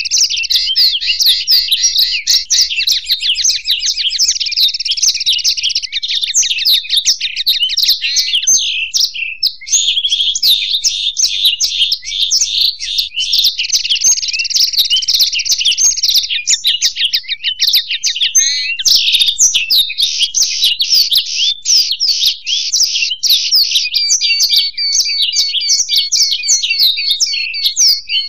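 European goldfinch and black-throated canary (blackthroat) singing together without pause: a dense, continuous stream of fast high trills, twitters and chirps. The song changes character abruptly several times.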